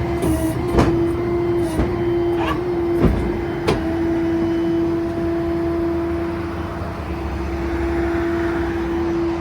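Ford F-550 Super Duty rollback tow truck running with a steady whine, with five sharp clicks or knocks in the first four seconds.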